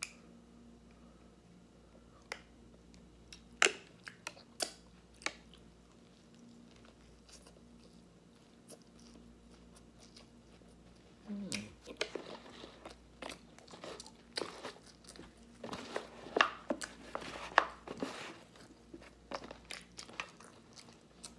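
Close-up chewing and crunching of crispy fried fast food: a few separate crunches in the first half, then steady crunchy chewing from about halfway on. A faint steady hum sits underneath.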